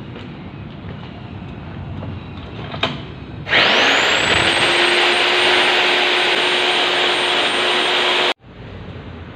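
Electric concrete core drill motor starting up about three and a half seconds in: a whine that rises quickly and settles into a steady high pitch, running loud for about five seconds and then cutting off suddenly. Before it, a low steady background noise with a single click.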